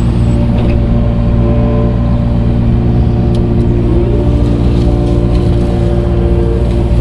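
Tractor engine running steadily at working speed while loading and moving dirt, with a few higher tones shifting slightly in pitch over the drone.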